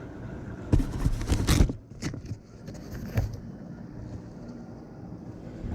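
Handling noise in a kayak: a cluster of loud scrapes and knocks about a second in, then two single knocks, over a low steady hiss.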